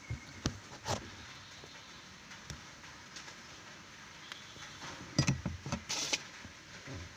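Close handling noise: scattered small clicks and rustles, with a cluster of louder knocks and a brief hiss about five to six seconds in.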